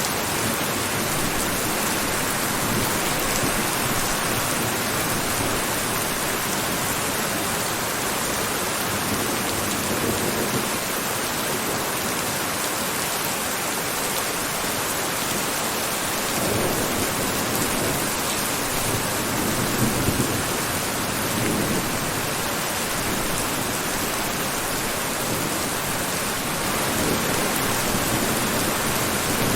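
Steady heavy rainfall, an even hiss of drops without letup, with a few soft low swells partway through.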